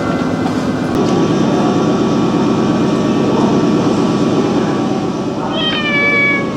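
Steady rumble of a train, with a brief high, slightly falling squeal near the end.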